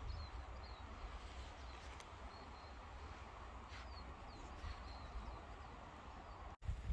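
Faint birdsong: small birds giving short high chirps every second or so over a steady low rumble. The sound cuts out for an instant near the end.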